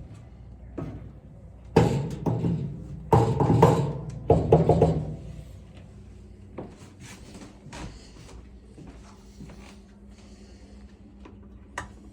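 Sheet-metal parts of an LG dryer clanking and scraping while being taken apart, in three loud bursts with a metallic ring about two to five seconds in, followed by scattered light clicks and knocks.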